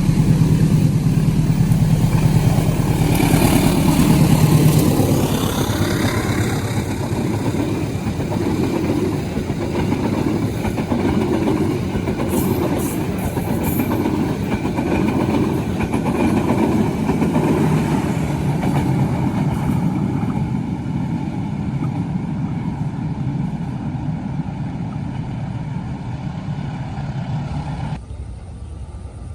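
A diesel-hauled passenger train passing close by: a steady low engine drone for the first few seconds as the locomotive goes past, then a long, loud rumble of the carriages rolling over the rails, which falls away sharply near the end as the last car goes by.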